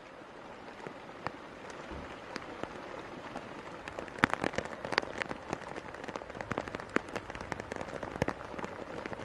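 Steady rain with the sharp ticks of close drops striking, the drops coming thicker from about four seconds in.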